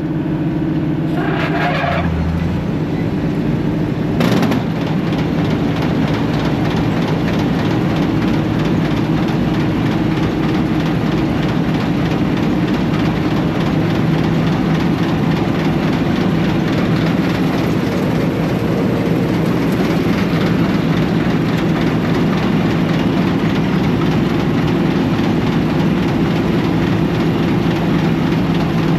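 Engine of an old 4400 combine running steadily, after the question of whether it would work today; there is a brief clank about four seconds in.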